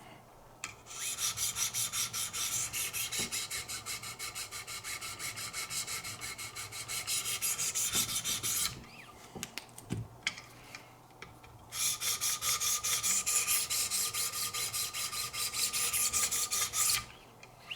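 600-grit diamond stones of a Wicked Edge guided knife sharpener stroked rapidly back and forth along a blade's edge, touching up the tip. The stroking comes in two long bouts with a short pause between.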